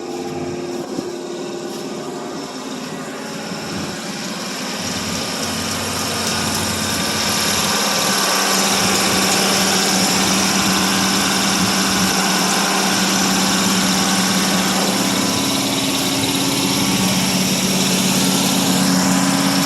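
1978 Pontiac Bonneville's 301 V8 idling steadily, growing louder about six seconds in.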